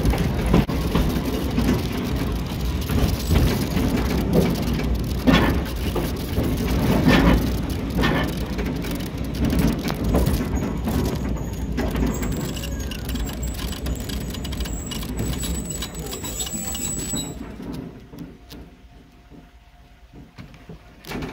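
Narrow-gauge forest railway train running over the track, a steady rumble and clatter with several sharp knocks from the rails. A thin high squeal comes in as it slows, and the running noise drops away about 17 seconds in as the train comes to a stop.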